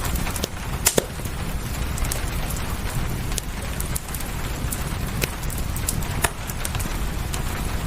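Fireplace crackling, with scattered sharp pops (two loud ones close together about a second in), over a steady rain hiss and a low rumble.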